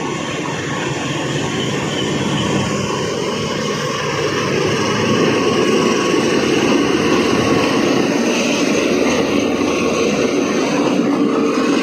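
Diesel-hauled passenger train running along the rails through the station, a steady rumble of wheels and coaches on the track that grows louder about halfway through.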